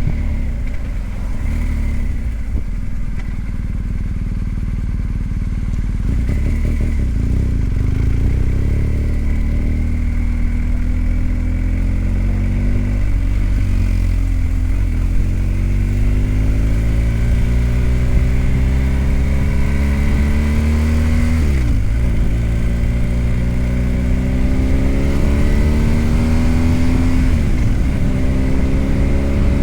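BMW R1250GS Adventure's boxer-twin engine pulling under way, its note climbing steadily for several seconds, then dropping sharply about two-thirds through at a gear change and climbing again.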